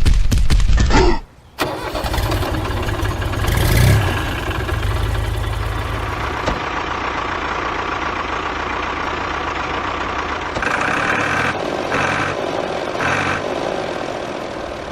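Small engine of a homemade miniature tractor: a loud rapid chugging that cuts out about a second in, then after a short pause the engine starts again, swells briefly, and runs steadily.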